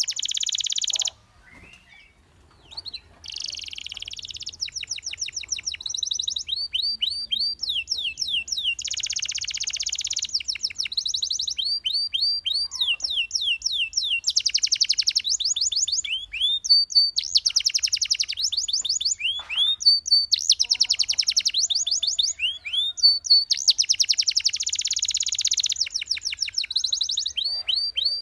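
Domestic canary singing a long, continuous song of rapid high trills alternating with runs of quick falling whistled notes, with a brief pause about a second in.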